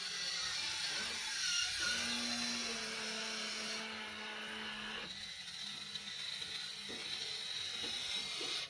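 Small electric motors and gearboxes of a WLtoys RC toy excavator running as it works, a continuous mechanical whir that changes character about two-thirds of the way through.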